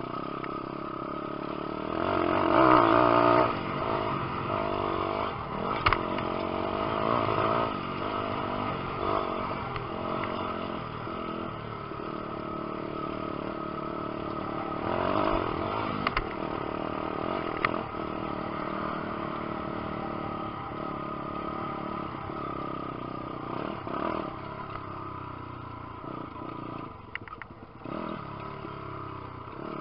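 Lifan 150cc single-cylinder four-stroke pit bike engine revving up and falling back as it is ridden round a motocross track, loudest at two bursts of throttle, with a few sharp clattering knocks.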